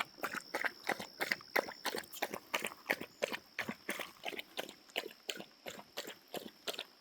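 Irregular crunching and snapping, several sharp cracks a second, over a faint steady high whine.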